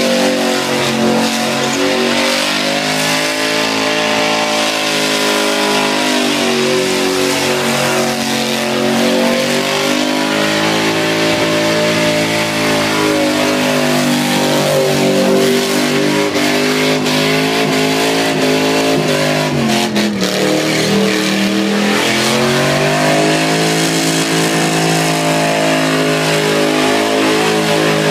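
Holden VR Commodore's engine held at high revs through a burnout, the revs rising and falling in long swells as the rear tyres spin and smoke. About twenty seconds in the revs drop sharply, then climb back up.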